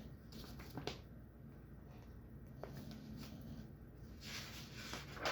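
Quiet room tone with a low steady hum, a couple of faint clicks and a soft brief rustle about four seconds in.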